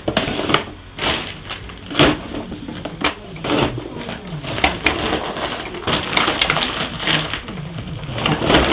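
A baby's cooing babble over irregular knocks and clatter from a toy tractor being handled.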